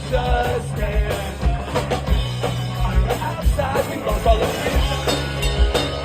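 Live pop-punk band playing: distorted guitars, bass and a drum kit driving a steady beat, with a voice or lead guitar line on top.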